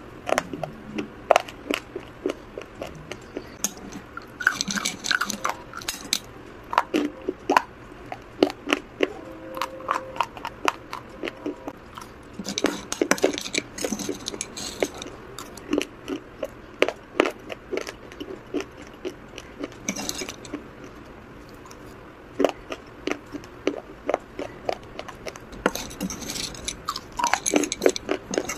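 Close-up crunching and chewing of hard baked-clay pieces in a series of sharp, crackly bites, with occasional scrapes and clinks of a metal spoon on a ceramic plate.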